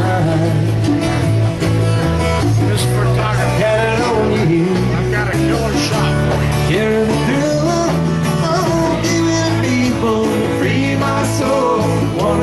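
Live band playing a country-rock song, guitar over a steady bass line.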